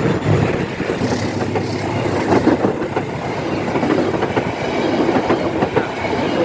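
Passenger coaches of a train rolling past at close range: steel wheels clattering over the rails in rapid, irregular clacks over a steady rumble.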